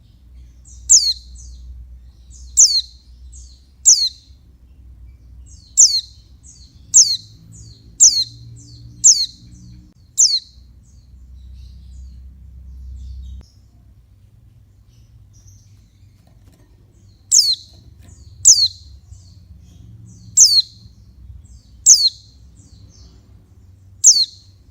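Female white-eye (pleci) giving short, sharp high calls, each a quick falling note, about one a second. The calls pause for around seven seconds midway, then resume.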